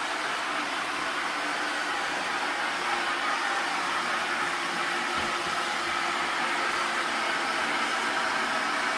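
AIRROBO P10 robot vacuum cleaner running: a steady hiss of motor and suction with a faint whine on top.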